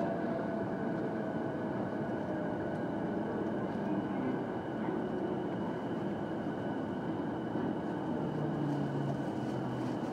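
Interior running noise of an E233-5000 series electric train: a steady rumble from the car with a few faint steady tones, one of them sinking slightly in pitch over the first couple of seconds.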